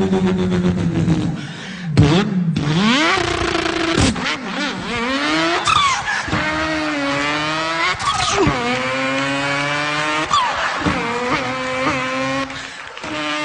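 A man imitating a racing car engine with his voice: a buzzing engine-like note climbs in pitch, drops suddenly as if shifting gear, and climbs again several times, then holds a steadier note near the end.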